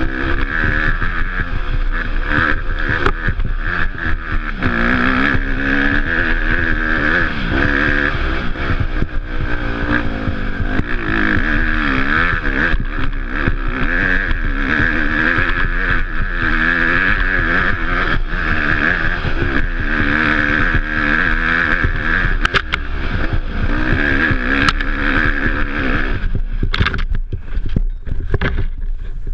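Off-road dirt bike engine being ridden, its revs rising and falling continuously with the throttle, with a few sharp knocks near the end.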